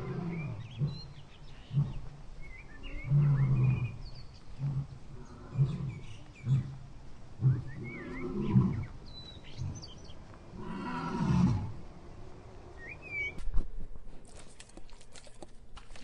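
Barbary macaque giving a series of short, low grunts and growls, with birds chirping behind. A run of sharp clicks comes near the end.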